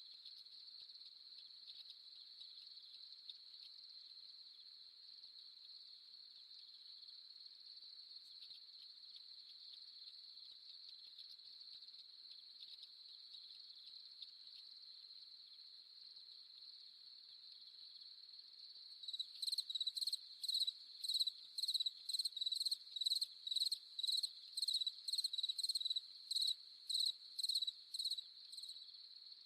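Crickets trilling steadily in a high, even drone. About two-thirds of the way in, a louder, nearer cricket starts chirping about twice a second for some ten seconds, then stops.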